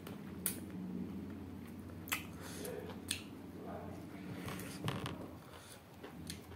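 Close-up mouth sounds of a person biting and chewing cooked duck meat: scattered wet clicks and smacks a second or so apart, over a low steady hum.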